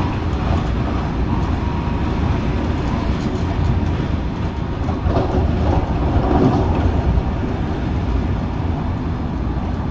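MTR Tung Chung line CAF electric train running, heard from inside the carriage: a steady rumble of wheels and traction equipment, swelling a little about halfway through.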